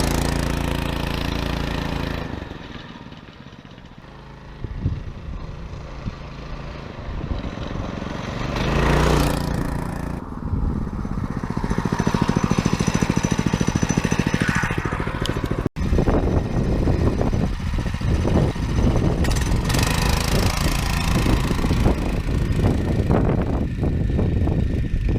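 Small single-cylinder four-stroke 6.5 hp Lifan engine of a homemade fat-tyre dirt bike running during a test ride: the note dies down a couple of seconds in, revs up again about nine seconds in, then runs on steadily, with an abrupt break about midway.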